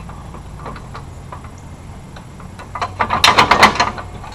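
Steel hitch hardware being handled and fitted: a few light metallic clicks, then a rapid run of sharp clinks and knocks about three seconds in.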